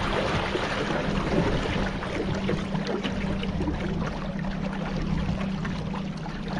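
A steady motor hum with rushing water and wind noise, typical of a motorboat under way.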